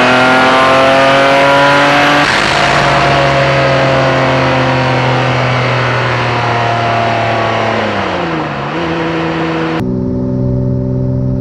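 Turbocharged car engine pulling hard under acceleration, its pitch climbing steeply. About two seconds in it breaks off with a rush of hiss as the revs fall, then runs on with the pitch slowly easing down, dipping and recovering once near the end.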